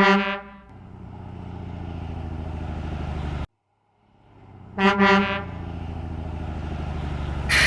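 Truck sound effects: short horn toots, then a truck engine running and building steadily. The sequence repeats after a brief silent gap, and a loud hiss-like burst comes near the end.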